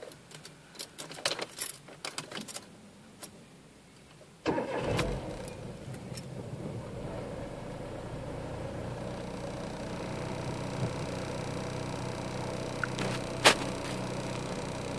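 Keys jangling and clicking in a car's ignition, then the engine cranks and catches about four and a half seconds in and settles into a steady idle. A single sharp click near the end.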